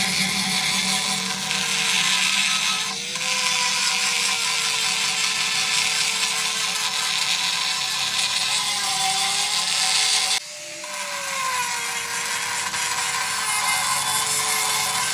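A power tool's motor running continuously with a hissing cutting or grinding noise, its pitch wavering slightly as the load changes; the sound dips briefly about three seconds in and drops sharply, then builds back up, about ten seconds in.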